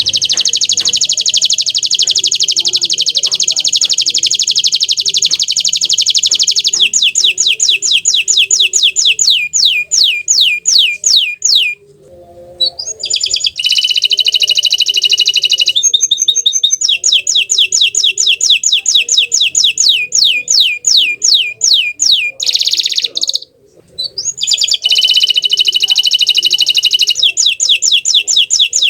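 Bottle-green canary singing a long rolling song: fast buzzy trills alternating with runs of rapid falling whistled notes, several a second. The song breaks off briefly twice, about twelve seconds in and again near twenty-three seconds.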